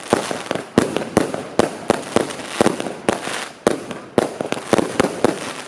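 Fireworks going off: a rapid, irregular string of sharp bangs, about two or three a second, with crackling between them.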